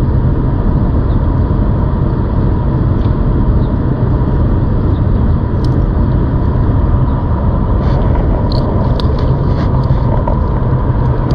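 Steady low rumble of wind on the microphone and tyre noise while riding a ZOOZ electric bike, with a faint steady whine and a few light clicks in the second half.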